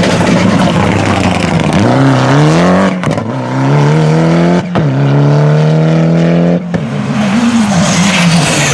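Rally car engine at full throttle, its pitch climbing steeply and dropping back at each upshift, several times.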